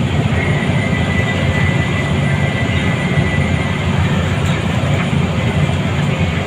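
Scania L94UA bus heard from inside the cabin while under way: a steady rumble of engine and road noise, with a faint high whine running through it.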